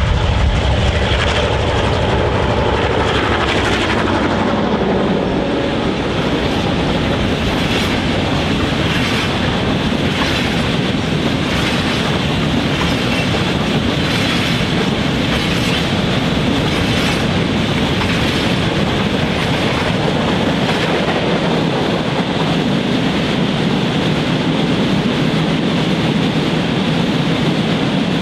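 Freight train passing close by. The Alco and Clyde/GM diesel locomotives go past first, their engine note dropping in pitch over the first few seconds. Then a long string of grain hopper wagons rolls by with a steady, regular clickety-clack of wheels over the rail joints.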